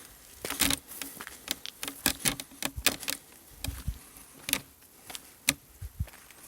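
A run of irregular sharp clicks and crackles, with a few dull low knocks scattered among them.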